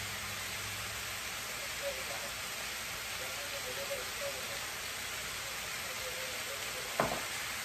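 Chicken and onions frying in a stainless steel sauté pan, a steady even sizzle. A single sharp click sounds near the end.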